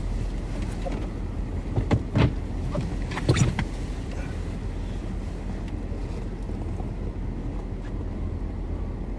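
Car engine idling, heard from inside the parked car's cabin as a steady low hum, with a few short thumps about two and three and a half seconds in.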